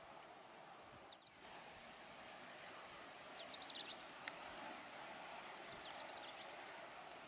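Small birds chirping in quick clusters of short sweeping high notes, about a second in, then around three to four seconds and six seconds in, over a steady faint background hum.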